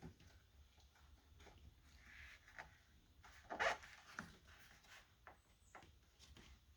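Faint rubbing and light clicking of a rubber door weatherstrip being worked onto the door's groove by hand, with one brief louder scrape about halfway through.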